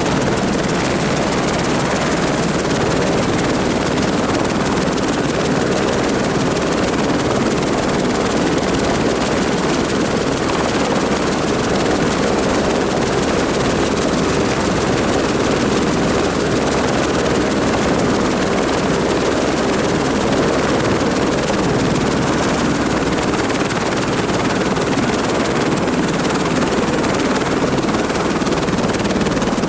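Helicopter in flight: a steady, loud rotor and engine din with a thin, steady high whine.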